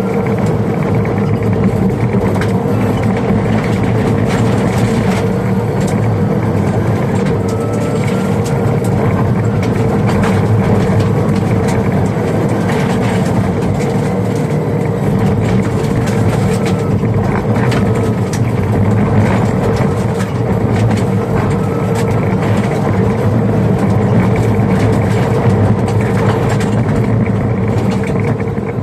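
Subaru Crosstrek rally car at speed on a gravel stage, heard from inside the cabin: steady engine and road noise with stones clicking and pinging against the underbody again and again.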